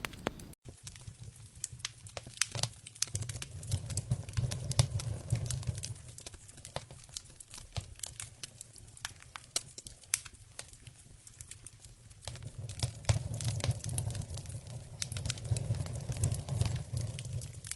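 Campfire crackling, with irregular sharp pops and snaps throughout. A low rumble rises and falls twice.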